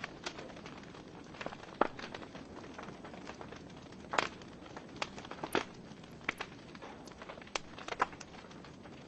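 Wood fire burning in a fireplace, crackling: irregular sharp pops and snaps from the burning logs over a soft steady hiss of the flames, with a few louder pops scattered through.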